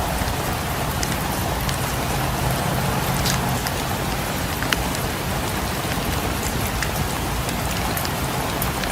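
Steady rain falling, with scattered sharp crackles of a wood fire in a fireplace.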